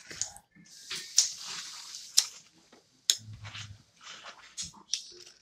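Close-up eating sounds: wet chewing and mouth clicks from a person eating a fish taco, with the aluminium-foil wrapper rustling and crinkling as it is handled.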